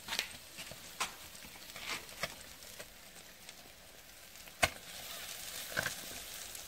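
Fish sizzling on a grill grate over fireplace embers, a steady hiss broken by a handful of sharp clicks and crackles, the loudest about four and a half seconds in.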